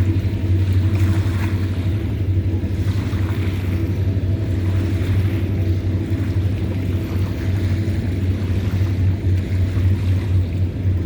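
Train running: a steady deep rumble with a constant low hum.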